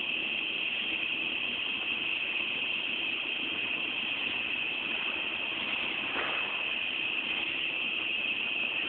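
Chorus of cicadas at night: a steady, high-pitched drone that runs on without a break.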